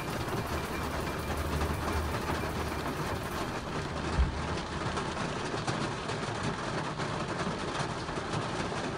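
Steady hiss of heavy rain, with a low rumble in the first two seconds and a single thump a little after four seconds.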